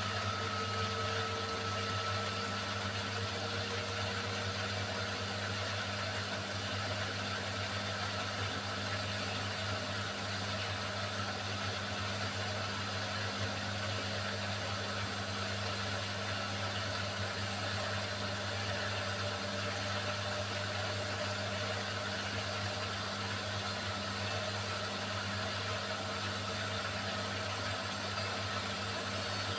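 Beko WMY81283LMB2 washing machine running mid-cycle: a steady low motor hum with a faint whine that rises slowly in pitch, the sound of the drum motor gradually picking up speed.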